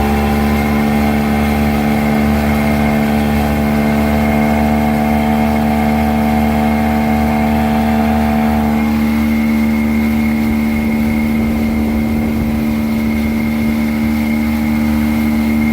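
Freshly rebuilt 1986 Evinrude 200 HP V6 two-stroke outboard running at a steady speed while being broken in, its note shifting slightly about nine seconds in.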